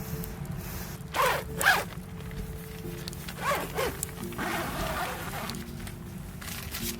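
A zipper being pulled in quick strokes, in two short bursts about one and three and a half seconds in, followed by a softer rustle.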